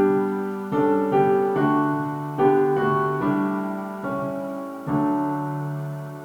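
Piano playing slow chords, each struck and left to ring and fade, with about seven chord changes.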